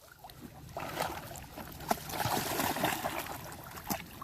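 Water splashing and sloshing as a puppy moves through it, building up about a second in, with a few sharp splashy clicks.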